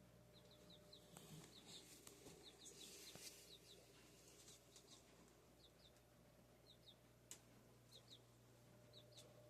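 Faint, repeated high peeps from chicks, often in quick pairs, over a steady low hum.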